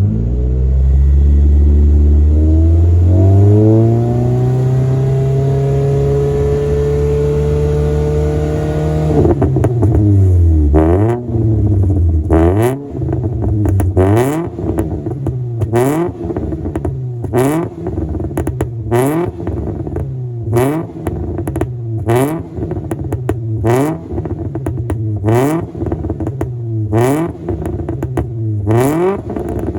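Nissan March (K12) four-cylinder engine through an aftermarket exhaust with a March Cup rear muffler, held at a steadily climbing rev for about nine seconds, then let drop. After that it is blipped on the throttle about once a second, each quick rev up and back down with a crackle.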